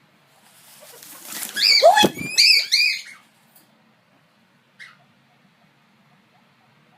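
Guinea pig squealing: a rustling scuffle builds, then a quick run of loud, high squeaks about two seconds in, and one short squeak near the five-second mark.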